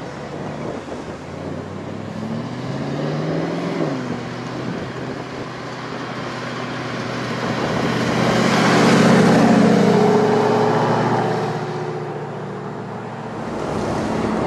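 Straight-piped Mercedes-Benz SLS AMG V8 and a Lamborghini Gallardo V10 under acceleration. Engine pitch climbs for a couple of seconds and drops about four seconds in, then a louder swell builds to a peak around nine seconds in and eases off.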